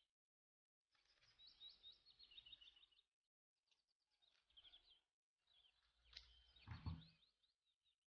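Faint chirping of a small bird: three short bursts of quick high notes and trills, with a soft low thump near the end.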